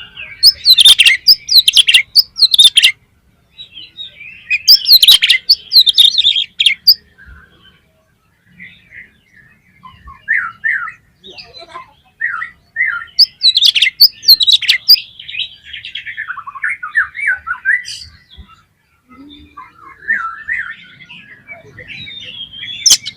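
Oriental magpie-robin (kacer) singing loudly in bursts of rapid, varied notes about a second in, around five seconds and around fourteen seconds, with quieter, shorter phrases between.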